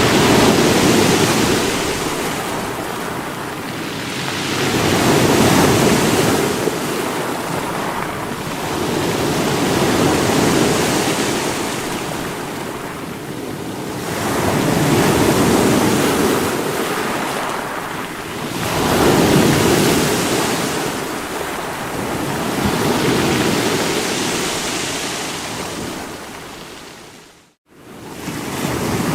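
Sea waves breaking on rocks, surging and easing about every four to five seconds. The sound cuts out abruptly for a moment near the end.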